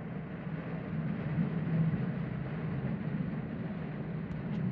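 Steady rain falling, an even rushing noise with a low rumble underneath, and two faint ticks near the end.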